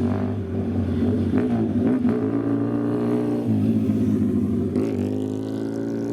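Old car engine running with a steady low exhaust note, blipped twice in quick succession and then revved up once more near the end.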